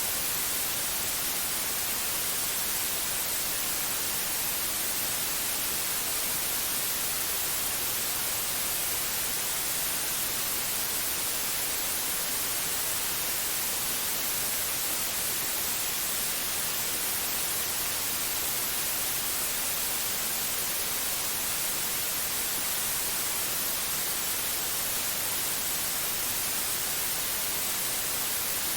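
Steady white-noise hiss, even and unchanging, strongest in the high treble.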